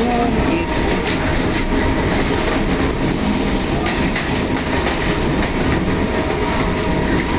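Running noise of an electric multiple-unit suburban train heard from on board: a steady rumble of wheels on rail with a faint steady hum.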